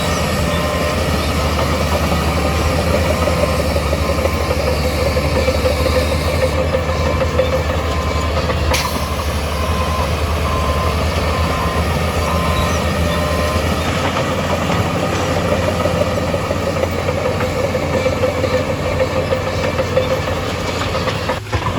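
Heavy diesel earthmoving machinery running steadily, with a faint repeating back-up alarm beep for the first two-thirds. There is one sharp knock about nine seconds in, and the low engine drone drops off at about fourteen seconds.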